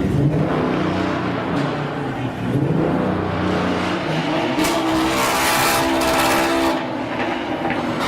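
Modified car engine revving hard, rising in pitch about three seconds in, with a loud hissing screech over it for about two seconds in the middle.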